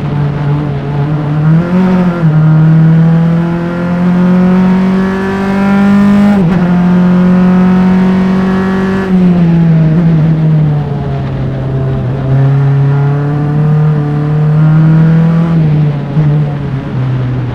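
Onboard engine of a Formula Enterprise single-seater race car under racing load: the revs climb steadily, drop sharply with an upshift about six seconds in, climb again, then fall as the driver lifts about nine seconds in and hold fairly steady through the rest, with a brief dip near the end.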